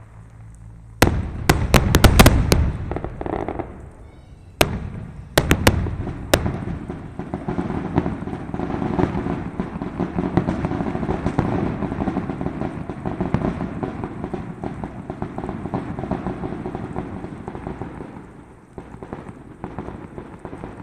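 Fireworks finale: a quick cluster of sharp bangs, a few more single bangs, then a dense, unbroken barrage of bursts that dies away near the end.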